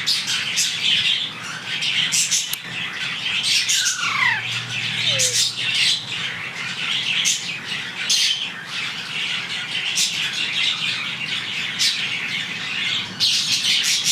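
Alexandrine parakeets squawking and chattering in quick, repeated harsh calls, with one call gliding downward in pitch about four seconds in.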